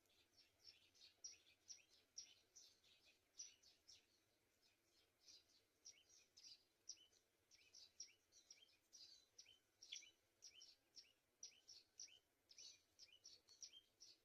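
Faint, rapid series of short, high bird chirps, two or three a second, many dropping in pitch, running on without a break.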